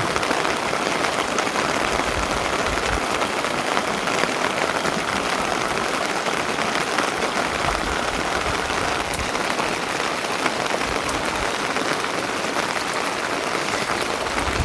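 Steady rain falling, a dense patter of drops with no let-up.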